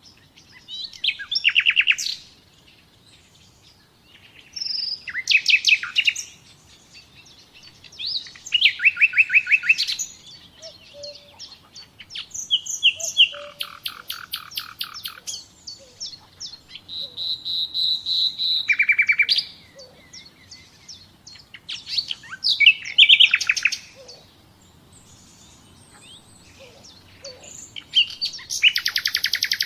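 Songbird song: short phrases of rapid repeated notes, a different phrase every three to four seconds with quiet gaps between.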